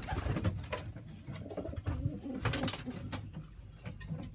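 Racing pigeons cooing in a loft, low and irregular, with a few short sharp clicks a little past halfway.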